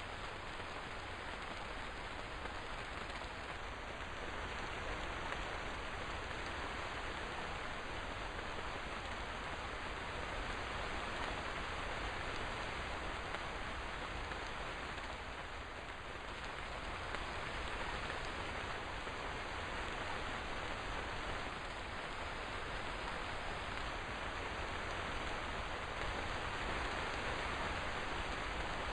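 Steady rainfall, an even hiss of rain on surfaces.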